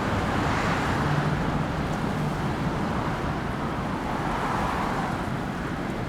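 Steady road traffic noise, swelling as vehicles pass about a second in and again near the end.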